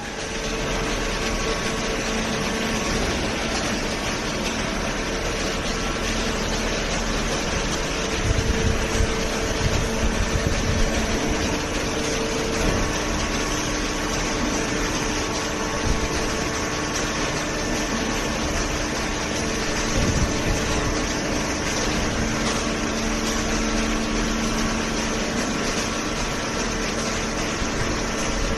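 Two-ram hydraulic horizontal baler running: a steady machine hum with a few held tones over broad machinery noise, and a few knocks around a third of the way in.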